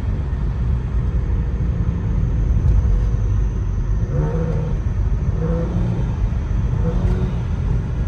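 Car running down the road with a low, droning exhaust rumble. The exhaust sounds raspy, which the owner puts down to remains of a run-over deer caught up under the exhaust, possibly rubbing.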